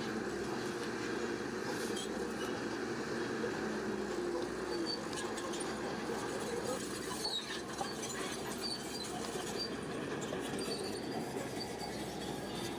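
Shantui crawler bulldozer working: a steady diesel engine note with short high squeals from its steel tracks scattered throughout.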